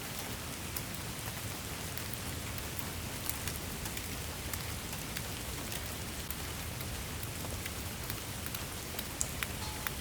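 Steady rain falling, a continuous hiss with scattered individual drops ticking on a surface, a few sharper drop hits near the end.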